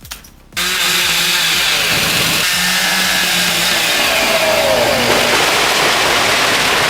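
An engine running loudly and steadily, with a falling whine about four to five seconds in.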